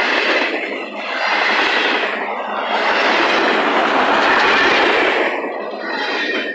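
Double-stack intermodal freight cars of a CSX train rolling past at track speed: steel wheels clattering and rumbling over the rails. The loudness swells and eases in waves as the cars and their wheel sets go by.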